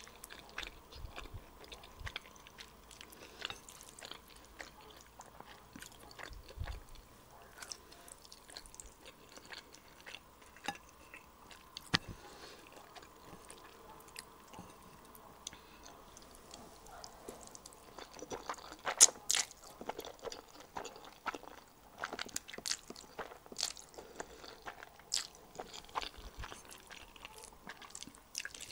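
Close-up chewing of instant black bean sauce noodles (jjajangmyeon), with many short wet mouth clicks and a louder run of them about two-thirds of the way through.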